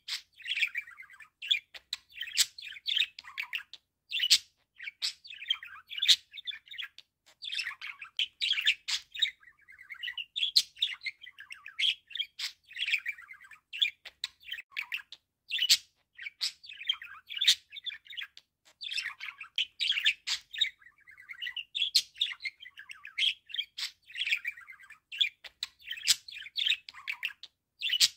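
Budgerigar chirping and warbling: a continuous, high chatter of quick chirps and sharp clicks, broken now and then by short pauses.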